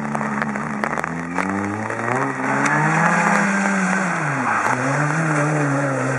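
Rally car engine pulling hard, its pitch climbing in steps through the gears, dropping about four and a half seconds in as the driver lifts off, then rising again.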